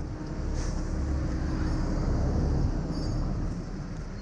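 Steady low vehicle engine rumble, swelling slightly about two seconds in and easing near the end.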